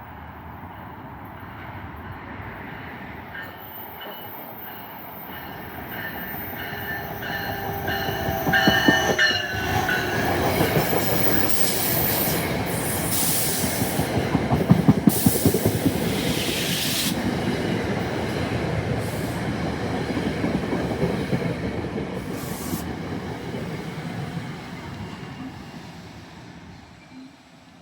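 A passenger train passing at speed: it builds up, goes by with wheels clicking over rail joints, then fades away. A high squeal from the wheels is heard as it arrives.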